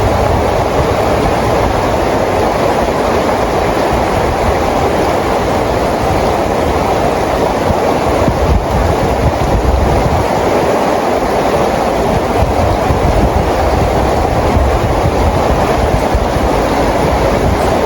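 Steady rainfall: a dense, even rushing hiss with a low rumble underneath, unbroken throughout.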